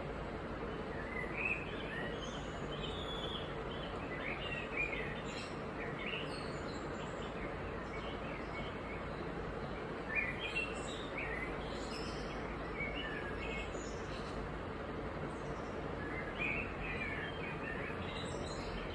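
Small birds chirping now and then in short runs of quick notes, over a steady background hiss with a faint hum.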